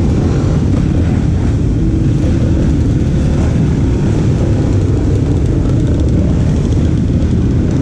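Dirt bike and quad ATV engines running in a group, a loud, steady low rumble.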